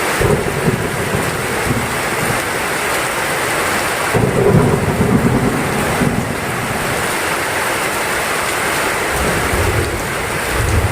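Heavy rain pouring steadily, with thunder rumbling low underneath, swelling near the start and again about four seconds in.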